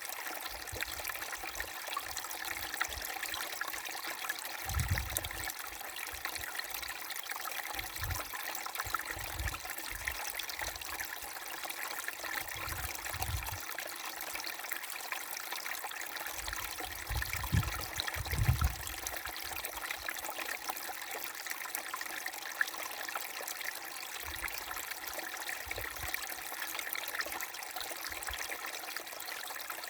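Small brook babbling and trickling steadily over stones, with a few short low rumbles now and then.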